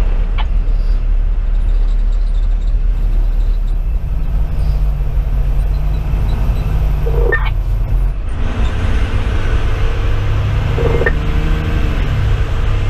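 A fire engine's 470 hp Detroit Series 60 diesel running with a steady low drone, heard from inside the cab. Two short pitched sounds rise above it, about seven and eleven seconds in.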